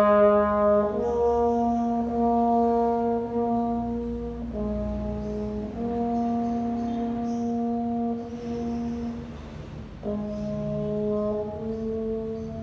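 Brass instrument playing a slow line of long held notes, each sustained a few seconds, shifting pitch several times.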